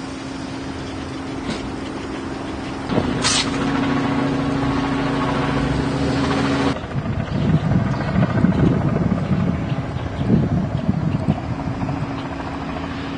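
A heavy vehicle's engine running steadily, with a short sharp hiss about three seconds in. About seven seconds in the sound changes abruptly to an uneven low rumble.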